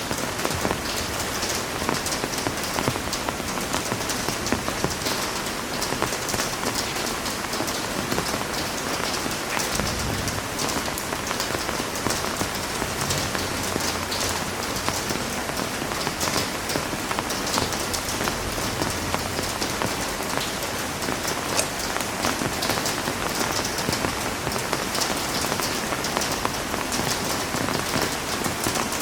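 Heavy rain falling steadily on a surface, a dense hiss of many drops with fine patters throughout, and a faint low rumble around a third of the way in.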